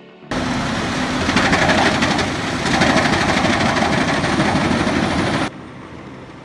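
Loud din of wood-processing machinery at work, a dense rushing noise that starts suddenly just after the start and cuts off abruptly about five seconds in, leaving a quieter engine running.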